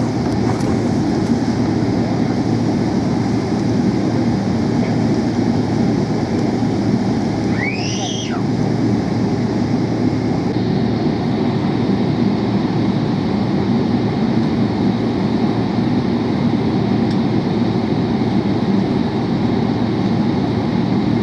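Steady loud cabin noise inside a Boeing 777-300 airliner: the rumble of the jet engines and airflow heard from a window seat. About eight seconds in a brief rising whine sweeps up through the noise.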